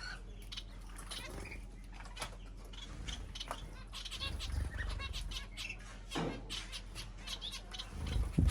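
Small cage birds, finches and budgies, chirping in short high calls amid many quick clicks of pecking and fluttering at a feeder, with a couple of low thuds.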